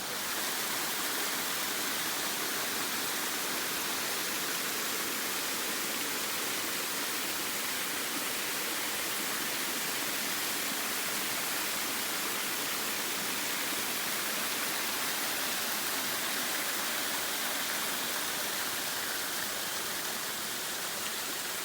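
Waterfall rushing steadily, a beck plunging over rocky ledges into a gorge, an even hiss of falling water with no change in level.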